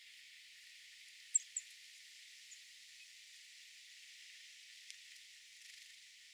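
A small songbird gives two short, high chirps a quarter-second apart about a second and a half in, then a fainter one a second later, over a steady faint hiss.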